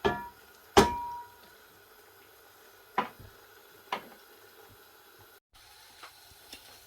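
Metal cookware knocking and clinking, four sharp strikes, the second one the loudest and ringing briefly, as a utensil or lid hits a cooking pot.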